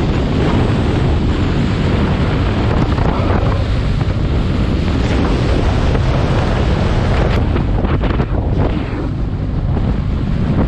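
Wind rushing over the microphone of a camera on a moving motorcycle, with engine and road noise underneath. It eases slightly about eight seconds in.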